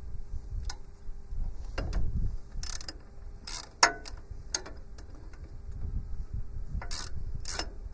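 Hand ratchet wrench clicking in a few short bursts while loosening the tractor's sub-frame bolts, with a sharp metallic knock about four seconds in.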